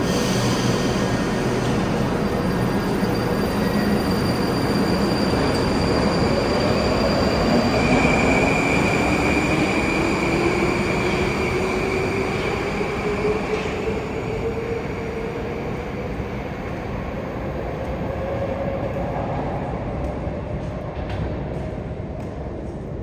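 MetroWagonMash 81-775/776/777 metro train running through the tunnel, with a steady rumble of wheels and running gear. Over it, the electric traction motors give a whine that climbs slowly in pitch over several seconds as the train gathers speed.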